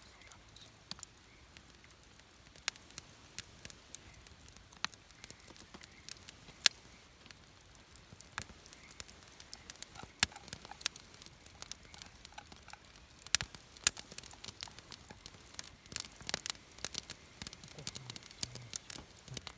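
Campfire wood crackling: irregular sharp pops and snaps, coming thicker and faster near the end.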